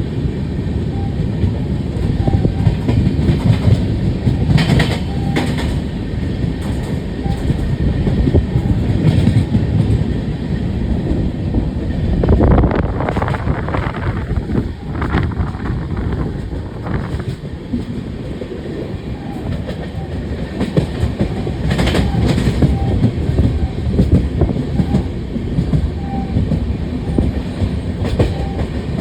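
Passenger train running at speed, heard from a coach window: a steady low rumble of wheels on rail, with sharp clicks and knocks from time to time as the wheels pass over rail joints.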